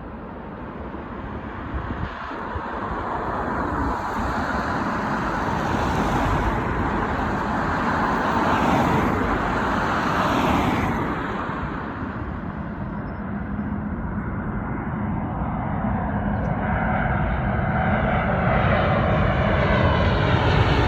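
Jet engines of a commercial airliner passing by, a broad rushing noise with a faint high whine that grows louder to a peak about nine seconds in, eases off, then builds again near the end.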